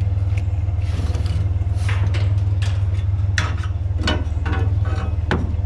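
A truck engine idling with a steady low rumble, while several short metal knocks and scrapes come from scrap, a stove, being handled.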